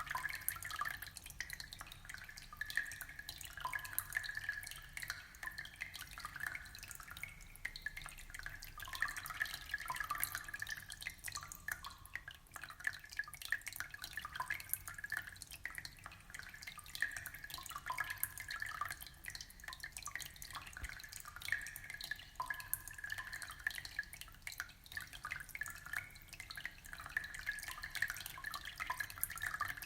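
Aquarium water trickling and bubbling steadily, a dense patter of small drips and splashes.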